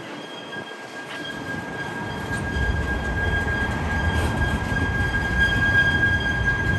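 Freight train cars rolling past on a curve, a low rumble of wheels on rail growing louder from about two seconds in, over a steady high-pitched wheel squeal.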